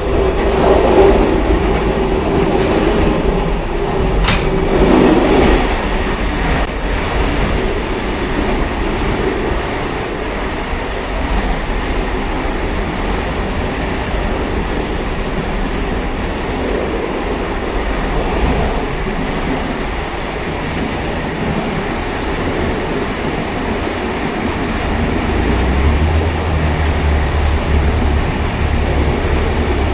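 Railcar running on the rails with a steady rumble and rail noise. A sharp click comes about four seconds in, and a low drone sets in near the end.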